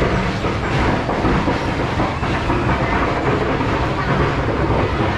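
A steady engine running, a low even rumble under a dense noisy haze.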